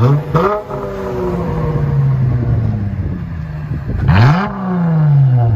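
Dodge Challenger 3.6-litre V6 revved twice through factory converters and X-pipe, Big Boz mufflers in place of the mid mufflers and 2 1/4-inch tailpipes. Each rev climbs quickly and then falls back slowly toward idle, the first at the very start and the second about four seconds in.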